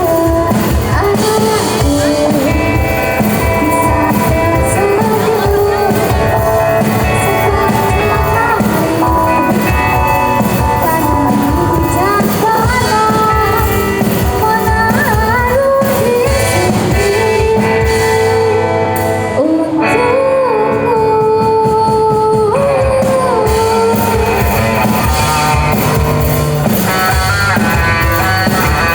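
Pop-rock song with a lead singer over electric guitar, bass and drum kit. About two-thirds of the way through, the cymbals and high sounds drop out for a few seconds before the full band returns.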